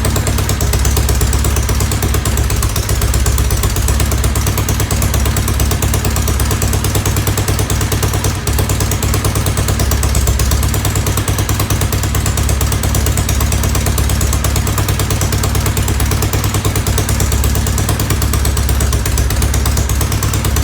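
1970 Norton Commando's air-cooled parallel-twin engine running steadily at idle, a fast, even exhaust beat with no revving.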